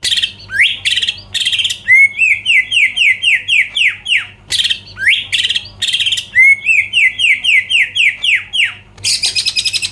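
A green leafbird (cucak ijo) singing a loud phrase twice. Each phrase opens with a few harsh, buzzy notes and a rising whistle, then runs into a quick string of slurred whistles at about four a second. A harsh, buzzy rattle comes near the end.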